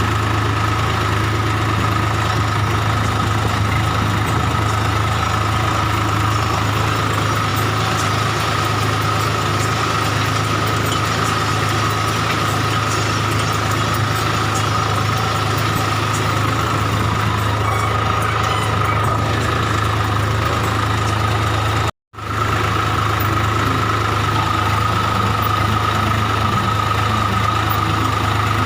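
Swaraj 744 FE tractor's diesel engine running steadily, with a steady high whine over its low drone. The sound breaks off for a moment about 22 seconds in, then resumes unchanged.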